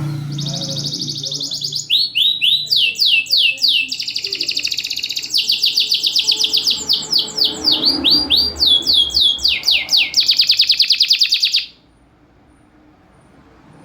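Domestic canary singing a long, unbroken song of rapid trills and sweeping whistled notes, phrase following phrase with hardly a pause. The song stops suddenly a couple of seconds before the end.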